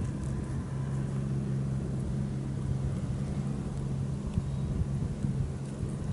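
A steady low hum over a low rumble, with no clear separate events.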